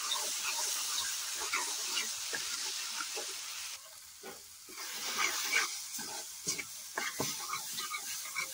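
Tomato masala sizzling as it fries in a metal kadhai, with a spoon stirring and scraping through it and knocking on the pan. The sizzle drops sharply about four seconds in, after which the scrapes and knocks stand out more.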